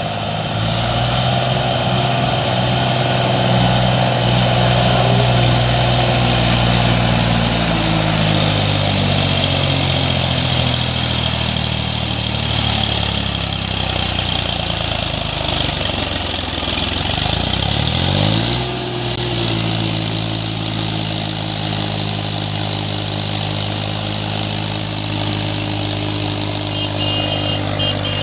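New Holland 3037 tractor's three-cylinder diesel engine working hard under load as it struggles up through dry sand, its pitch sagging slowly as it lugs. About 18 seconds in the revs drop away and then sweep back up, and the engine runs steadily after that.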